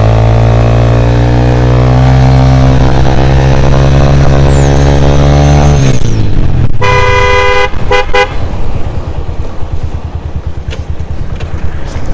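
Lifan KPR motorcycle's single-cylinder engine, through an aftermarket Akrapovic exhaust, held at high revs with the pitch creeping up for about six seconds, then dropping back. A horn then sounds once long and twice short, and the engine settles to a pulsing idle.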